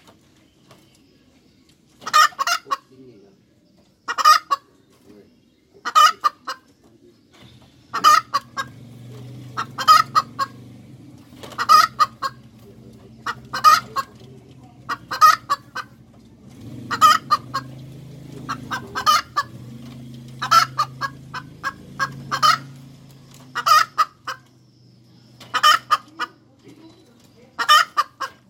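Hen cackling: a short, quick run of clucks about every two seconds, starting about two seconds in.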